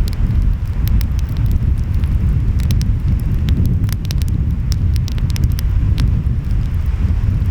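Wood fire crackling and popping in quick, irregular snaps over a steady low rumble of ocean waves and wind.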